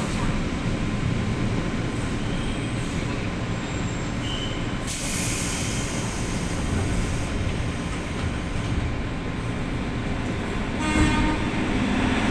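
Passenger train running on the rails with a steady rumble and rail noise. About eleven seconds in, a pitched, many-toned sound comes in over the rumble.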